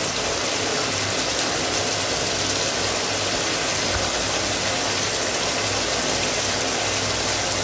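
Chicken curry sizzling in a kadai on the stove, an even, steady hiss.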